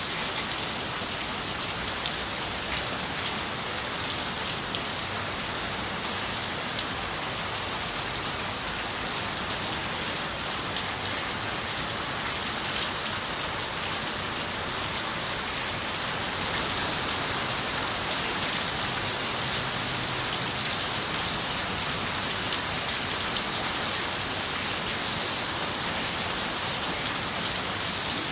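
Steady rain on a window, a dense even hiss with scattered single drop taps; it grows slightly louder about halfway through.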